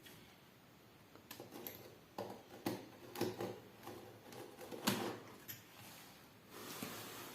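Hands handling a phone's box and packaging: a run of light clicks and taps over a few seconds, the loudest about five seconds in, followed by a soft sliding rustle near the end.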